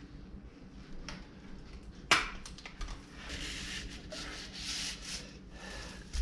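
Wood being handled: one sharp knock about two seconds in, followed by several passages of rubbing and scraping.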